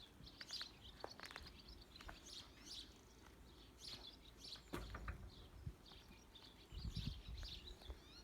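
Faint birdsong: small birds chirping repeatedly in quick, high notes. A low rumble comes in near the end.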